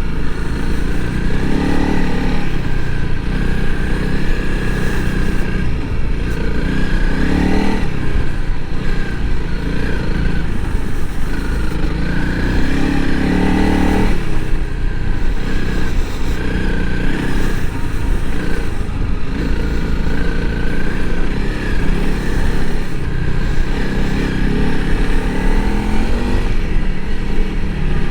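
Honda CRF300L Rally's single-cylinder four-stroke engine running under load through soft sand, its pitch rising and falling as the throttle is worked.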